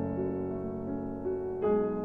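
Slow background piano music: sustained chords with single melody notes, and a new chord struck near the end.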